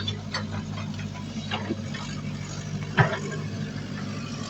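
A heavy diesel engine of earthmoving equipment running steadily, with scattered clicks and knocks and one sharp knock about three seconds in.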